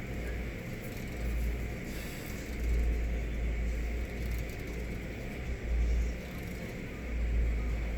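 Low, uneven vehicle rumble, as heard from inside a car, swelling and dipping a few times.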